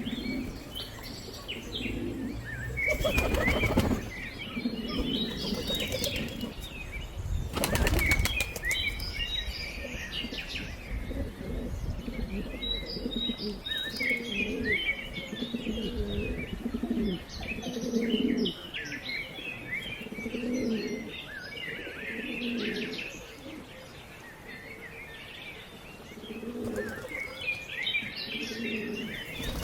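Pigeons' wings flapping in several loud bursts, about three seconds in, around eight seconds in and again at the end, over repeated low pigeon coos and scattered high bird chirps.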